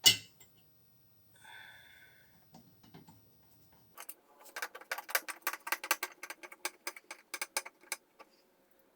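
A sharp click, then a little scraping, then a quick run of sharp clicks and light taps for about four seconds.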